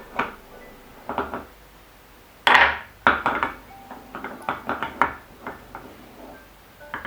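Marbles clicking and clattering against a wooden marble-and-cups toy as they are set into place, with a louder clatter about two and a half seconds in followed by a run of quick clicks.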